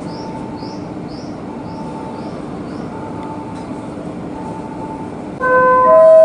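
Odakyu commuter train running into the platform with a steady rumble. About five seconds in, a louder multi-note station platform melody starts.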